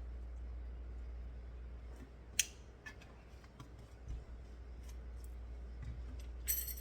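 Scattered sharp clicks, the loudest about two and a half seconds in, and a short clatter near the end, over a steady low hum.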